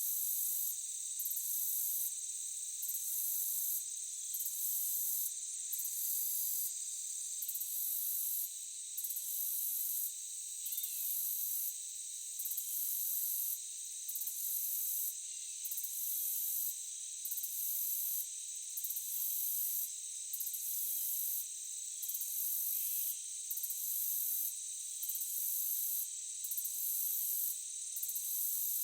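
Forest insect chorus: a steady high-pitched drone layered with a very high buzzing that pulses on and off about once a second.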